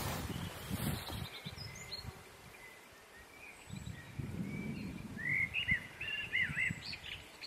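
A small bird chirping, a quick run of short rising-and-falling notes about five seconds in, with a few fainter chirps earlier. Low thumps and rumbles come and go beneath it, loudest in the first second.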